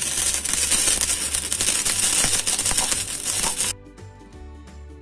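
Loud fizzing and crackling of a baking soda and vinegar volcano still reacting, which cuts off abruptly near the end when soft instrumental music starts.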